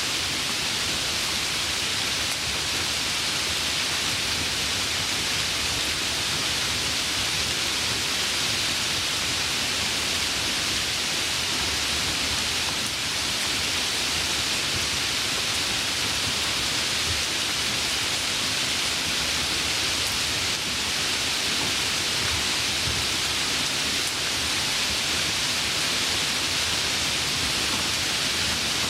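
Steady, even hiss of heavy rain, with no distinct drops or thunder standing out.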